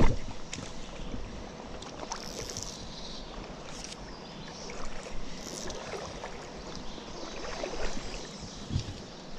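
Mountain stream water running steadily, with irregular splashes and knocks, the sharpest right at the start.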